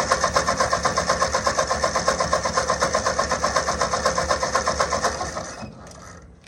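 Ford 600 tractor engine running at a steady, even beat, then sagging and dying about five and a half seconds in as it runs out of gas.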